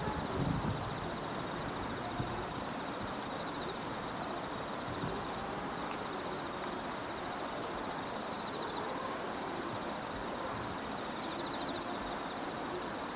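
Night insects, crickets or similar, trilling: one steady, unbroken high-pitched tone, with a fainter pulsing chirp joining near the end, over low background noise.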